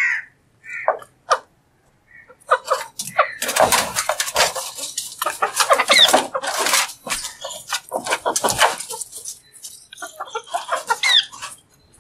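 Green parrot calling: a few short calls, then a long run of harsh squawking chatter broken by a couple of brief whistles.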